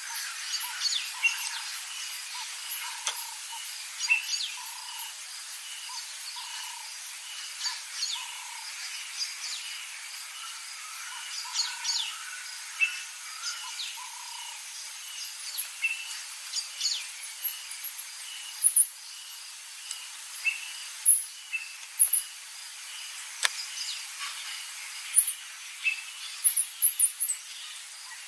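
Bush bird chorus: many birds chirping and calling, with a low call repeated about once a second. Sharp, high chirps grow louder in the second half.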